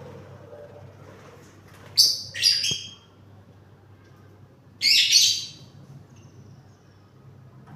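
Parrot calling: two short shrill calls close together about two seconds in, and another about five seconds in.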